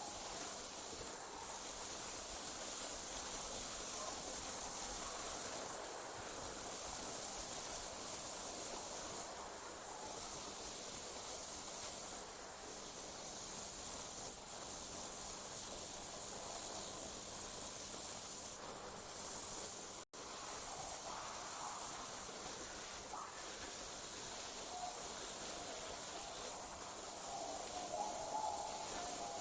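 Night chorus of crickets: a steady, high-pitched shrill trilling that breaks off briefly every few seconds, with one sudden cut-out about two-thirds of the way through.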